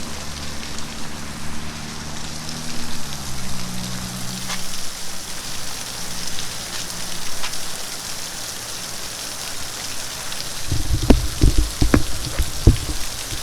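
Steady hiss like rain or spraying water, with a low hum that steps down in pitch over the first few seconds. A cluster of loud low thumps and a few sharp knocks comes about eleven to thirteen seconds in.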